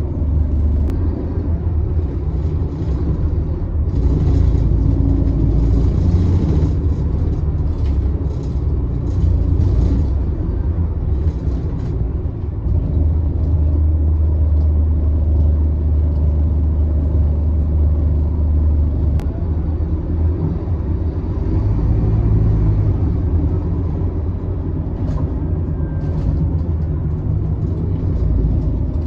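Scania K280UB city bus's five-cylinder diesel engine running under way, a loud low drone whose pitch shifts several times as it pulls, with patches of hiss and rattle about four to ten seconds in.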